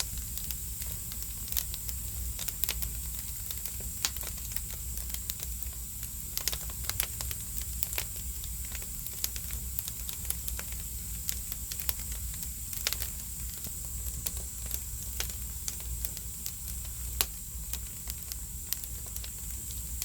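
Firewood burning in an agungi, a traditional Korean stoked firebox: a steady hiss with frequent sharp crackles and pops over a low, steady rumble.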